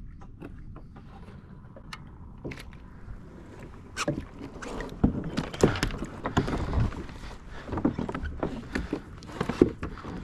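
Irregular knocks, clatter and water noise on a fishing kayak, getting busier and louder about four seconds in.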